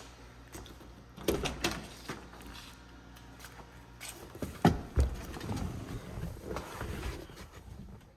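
A few sharp knocks and clunks, the loudest about halfway through, over a faint low hum that fades out around the same time.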